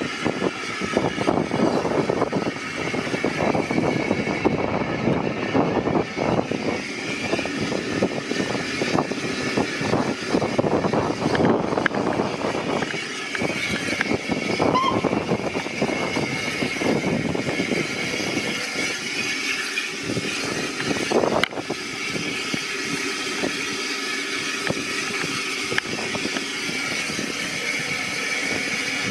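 A steam-hauled passenger train on the move heard from aboard: wheels clattering on the track and the coach rattling, with a steady high ringing tone running through.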